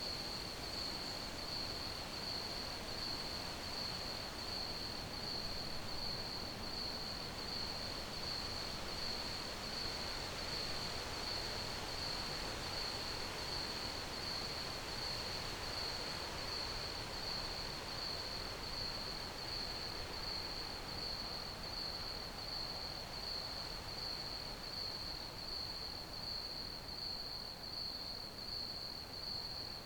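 Crickets chirping: one high, evenly pulsing chirp that never lets up, over a soft, steady hiss of background noise.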